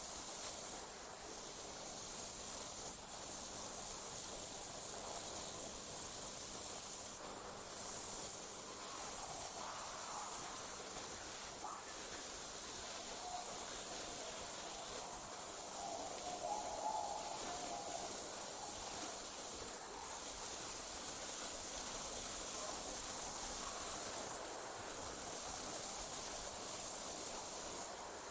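Night insects trilling in a steady, high-pitched chorus that drops out briefly every few seconds.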